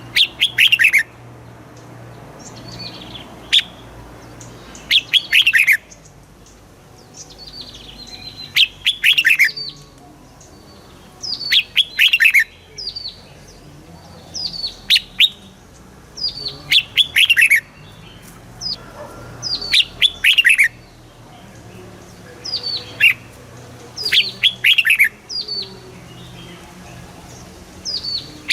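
Red-whiskered bulbul singing: short, loud phrases of quick down-slurred whistles, repeated every two to three seconds.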